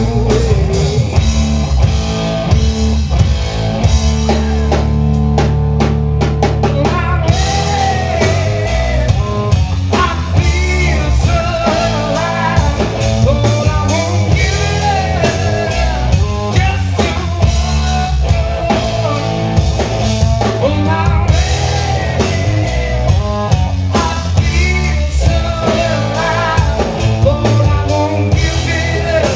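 Live blues-rock band playing loudly, with drum kit, bass and electric guitar; the sound fills out with more cymbal about seven seconds in.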